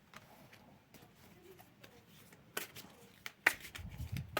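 Tarot cards being handled and laid out: faint handling at first, then a few sharp card snaps in the second half.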